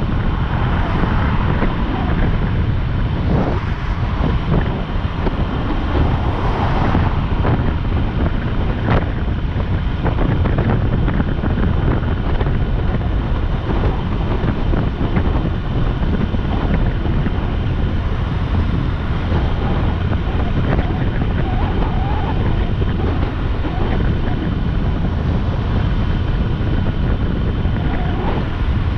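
Wind rushing over the microphone of a motorcycle at riding speed, a steady loud noise heaviest in the low end, with the motorcycle's running and road noise beneath it.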